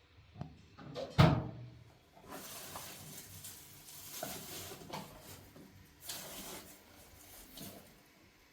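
A single loud knock about a second in, followed by several short stretches of rustling or scraping noise.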